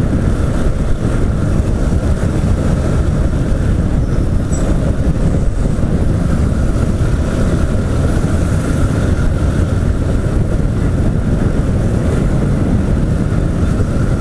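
Motorcycle riding at a steady pace in city traffic: a continuous mix of engine and road noise with a low, even rumble, without clear revving.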